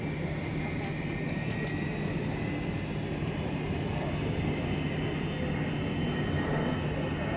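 Jet airliner engines running: a steady rumble with a thin high whine that rises slightly in pitch, swelling a little louder partway through.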